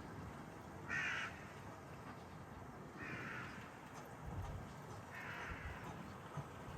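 Harsh bird calls, three times, about two seconds apart.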